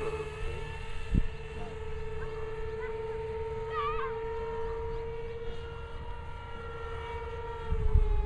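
Brushless electric ducted fans of a radio-controlled Airbus A380 model jet whining at a steady pitch, the pitch easing down slightly near the end. A single click about a second in and a few short chirps around four seconds in; low rumbling rises near the end.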